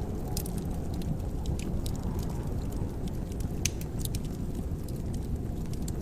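Wood fire crackling in a fireplace: irregular sharp pops and snaps over a steady low rumble of the burning fire, one pop louder than the rest a little past halfway.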